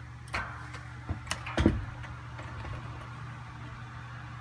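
A few short knocks and bumps, the loudest about a second and a half in, over a steady low hum.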